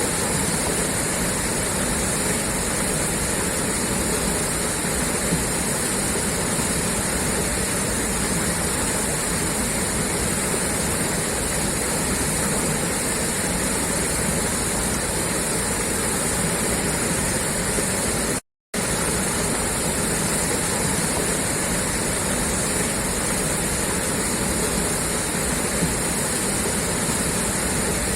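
Water gushing steadily out of a pipeline outlet, an even rushing. It cuts out to silence for a split second about two-thirds of the way through, then carries on unchanged.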